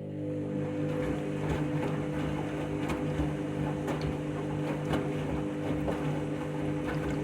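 Washing machine motor and drum on the final spin: a steady hum with a wash of noise and scattered faint knocks.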